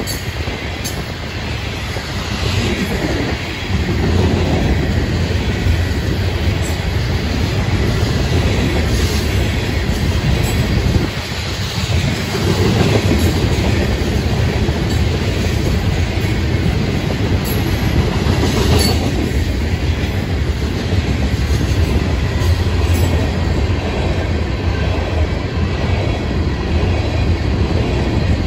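Freight cars (covered hoppers, tank cars and gondolas) rolling past close by: a steady rumble of steel wheels on rail with light clacking. It dips briefly about eleven seconds in.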